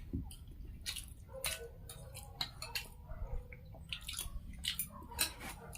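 Close-miked eating sounds: chewing, with many short irregular clicks and ticks.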